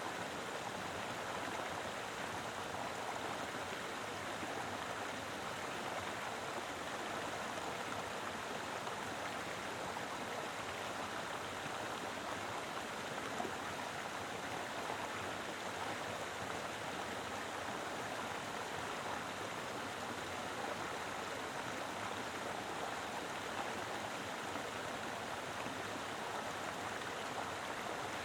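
Mountain river flowing steadily, a full, even rush of water over rocks.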